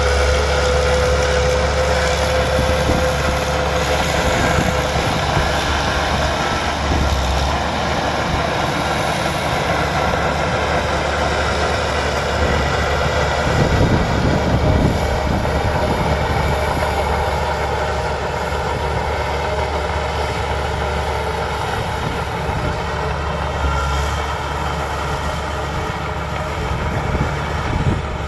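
Bulldozer's diesel engine running steadily under work, a heavy low drone that swells slightly about halfway through.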